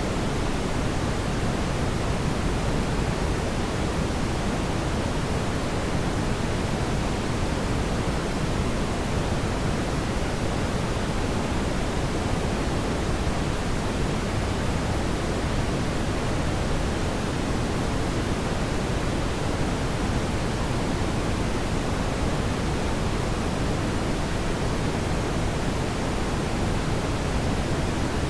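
Steady rushing noise of a fireplace ambience track, deepest in the low end, with no separate crackles or pops standing out.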